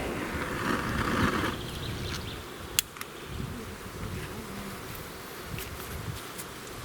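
Flying insects buzzing near the microphone in the forest, after a hiss that stops about a second and a half in, with one sharp click about three seconds in.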